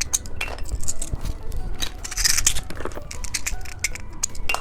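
Plastic wrapper of a bicycle-shaped candy being opened: a run of crinkles, clicks and tearing, with a denser stretch of crinkling about two seconds in.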